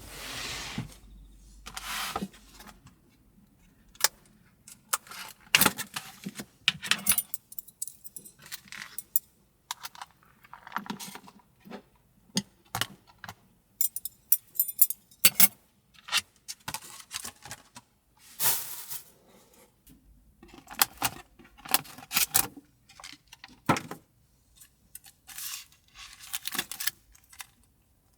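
Small hard objects being handled, clinking and clattering in a string of short irregular bursts with rustling between them.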